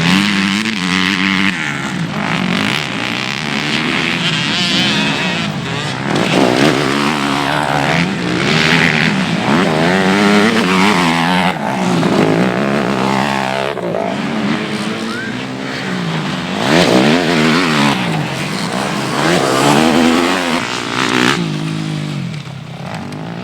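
Several motocross bikes revving hard and passing, their engines rising and falling in pitch over and over as they accelerate and shift.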